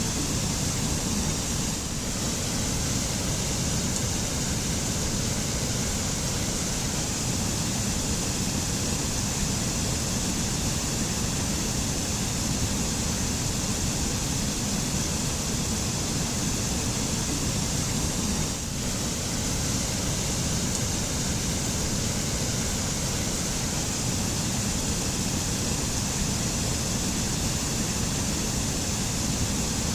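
Waterfall rushing in a steady, unbroken roar of falling water, heavy in the low end with a bright hiss on top.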